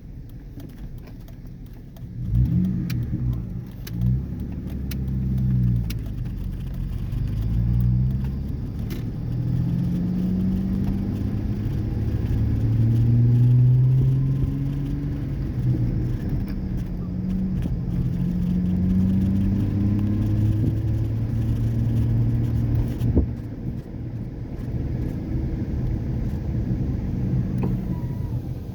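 Muffler-deleted 2003 Ford 4.0-litre V6 truck, four catalytic converters still fitted, accelerating on the road. The exhaust note climbs in pitch and drops back at each gear shift, several times over, then settles into a steadier cruise near the end.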